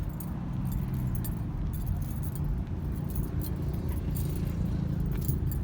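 Keys jingling in quick, light clinks, over a low, steady rumble of idling truck engines.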